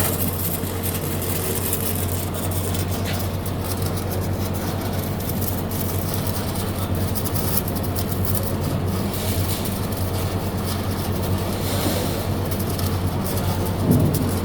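Electric arc welding: a steady crackling hiss over a constant low hum.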